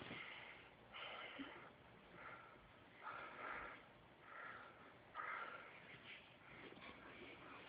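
Dog snoring faintly in its sleep: a run of short, breathy snores about once a second.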